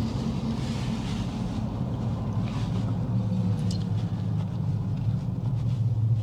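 Steady low hum of a car's engine and tyres heard from inside the cabin while driving along a highway.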